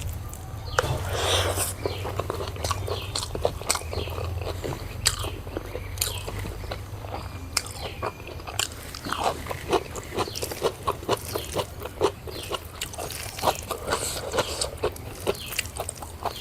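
Close-miked chewing and biting of food, with many short irregular crunchy clicks that come thicker in the second half, over a steady low hum.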